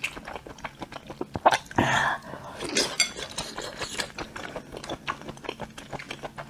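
Close-miked chewing of a mouthful of skewered meatball in chili sauce: a run of wet mouth clicks and smacks, with one louder, breathy burst about two seconds in.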